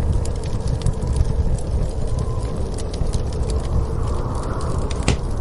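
Wood fire crackling in a fireplace, scattered small pops with one sharper pop near the end, over a steady low rumble of storm wind.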